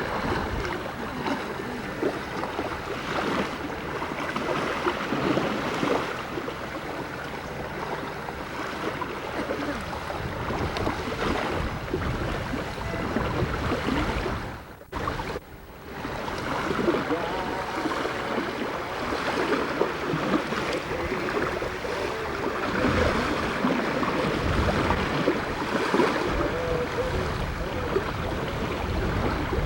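Boat under way on the river: a steady rush of motor, water and wind noise on the camcorder microphone, with a brief drop-out about halfway through.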